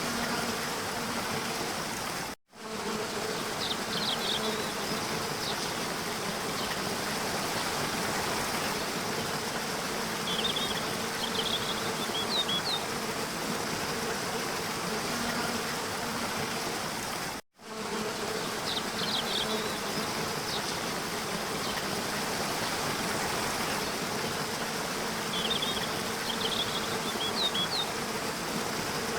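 Waterfall rushing steadily, with a low steady hum under it and short bursts of high bird chirps a few times. The sound drops out to silence for a split second twice, about fifteen seconds apart, where the recording loops.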